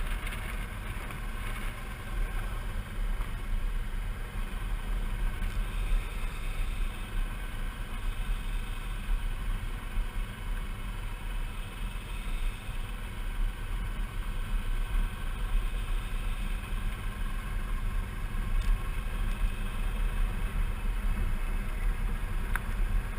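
Suzuki V-Strom 650's V-twin engine running steadily at a cruise, with road and wind rush.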